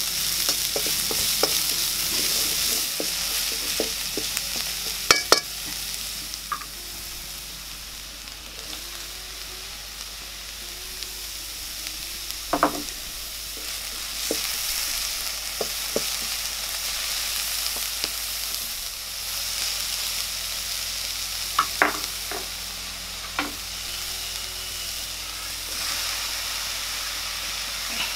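Chopped onions sizzling in hot oil in a metal wok, stirred with a wooden spatula that now and then knocks and scrapes against the pan. The sizzle is loudest in the first few seconds and then eases, with a few sharp knocks about five seconds in, at about thirteen seconds and twice a little after twenty seconds.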